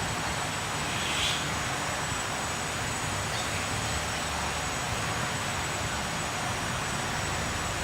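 Steady hiss and low rumble of background noise, with one faint short high-pitched sound about a second in.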